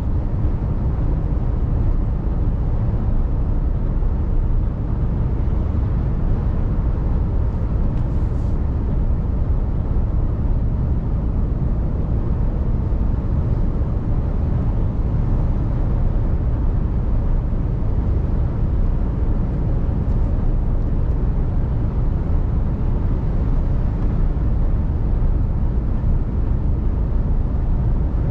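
Steady low rumble of a Mercedes Actros truck on the move: engine and road noise.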